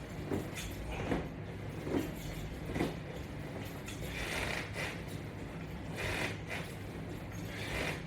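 Repeated creaks and rustles of resistance-band straps and a floor mat as a person does sit-ups, coming just under a second apart at first, then more slowly. A steady low hum runs underneath.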